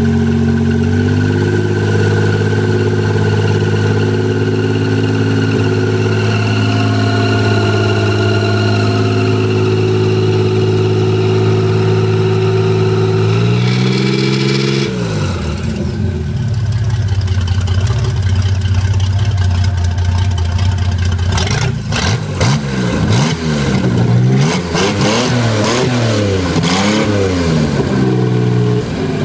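1990 MerCruiser 4.3-litre V6 marine engine running loud: held at a raised speed for about thirteen seconds, then dropping back to idle and being revved up and down several times. It runs without knocks, in good health.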